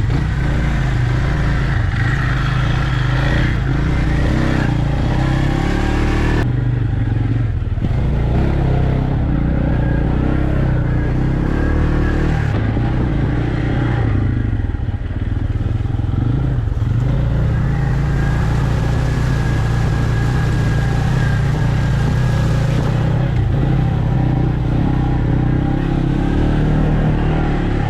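Engine of an off-road vehicle running continuously as it is ridden along a rough trail.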